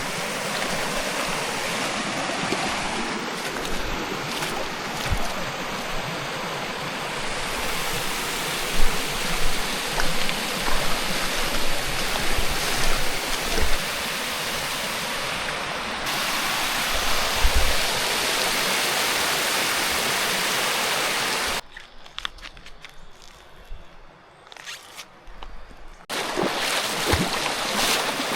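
River water flowing and rushing, a steady hiss of running water. About three quarters of the way through it drops away abruptly for a few seconds, leaving only faint scattered knocks, then comes back.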